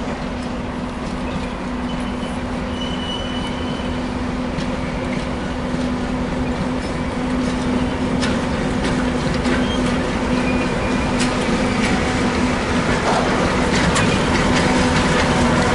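Diesel-hauled freight train running past with a steady engine hum, growing gradually louder. Brief wheel squeals come early on, and wheel clicks over the rail joints grow frequent in the second half.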